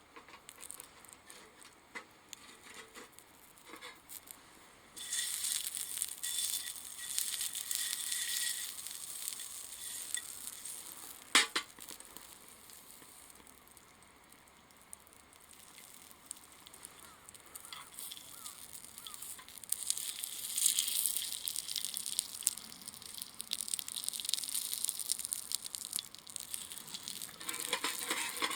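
Sizzling hiss at the wood-fired tab. can stove that starts suddenly about five seconds in, eases off, and builds again in the second half, with one sharp pop about eleven seconds in.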